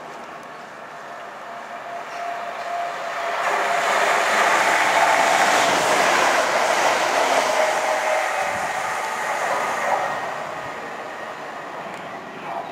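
Passenger train running through a station at speed: a rushing, rumbling noise builds over a few seconds, is loudest as the carriages pass close by, then fades away, with a faint steady whine running through it.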